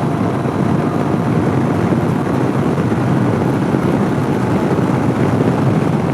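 2014 Honda CB500X's parallel-twin engine running at road speed under heavy, steady wind rush on the rider's microphone.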